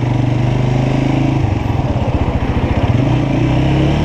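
Motorcycle engine running under way, its note easing off about a second and a half in and picking up again about three seconds in.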